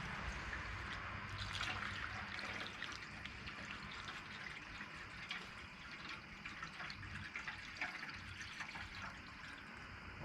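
Vinegar being poured into the steel fuel tank of a 1980 Honda ATC 185 to soak out its rust: a steady, faint trickling splash that slowly grows quieter.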